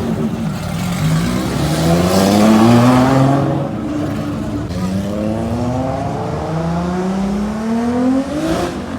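Nissan Skyline R32's engine revving hard as the car accelerates away, pitch climbing in three pulls with a drop at each upshift.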